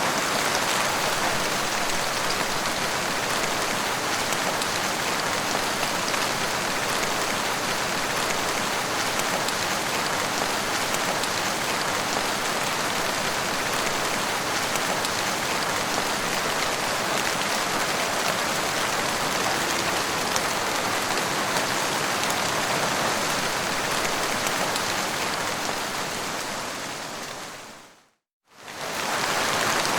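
Steady heavy rain falling, a dense even hiss. Near the end it fades out to a brief moment of silence and fades back in.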